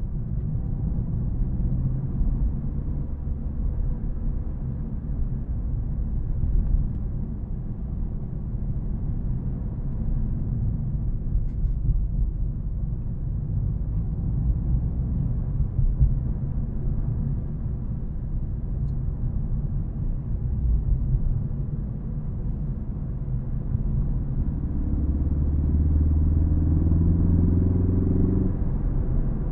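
Ford Focus ST engine and road noise while driving, a low steady drone. Near the end the engine note climbs under acceleration, then drops suddenly.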